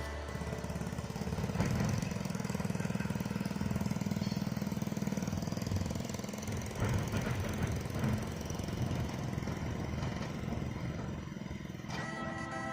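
Diesel truck engine running with a fast, even, knocking pulse. Music comes in near the end.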